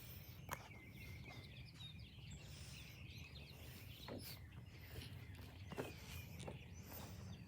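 Quiet outdoor ambience: faint birds chirping over a low, steady rumble, with a few soft clicks.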